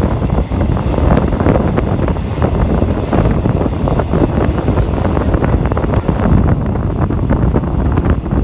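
Moving train heard from a carriage window: wheels rattling and clacking on the rails under steady rumbling, with wind buffeting the microphone.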